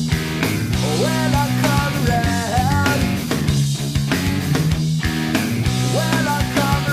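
Rock music with electric guitar, bass and drums, a lead line of bending notes repeating about every five seconds.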